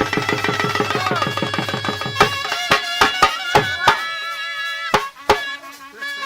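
Traditional South Asian music: rapid, even hand-drum strokes, about eight a second, under a sustained melody line. About two seconds in the fast drumming stops and gives way to a few sharp, spaced drum strokes while the melody holds long notes.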